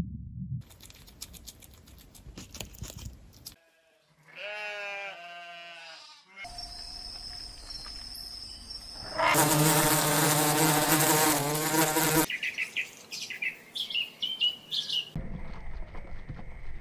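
A run of short animal sound clips, one after another. The loudest, from about nine to twelve seconds in, is a long wavering bleat; shorter calls and clicking sounds come before and after it.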